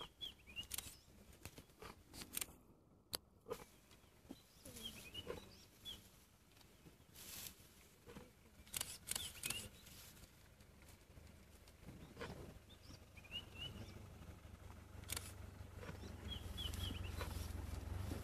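Small birds chirping in short clusters of high notes, among scattered clicks and rustles, with a low rumble building over the last few seconds.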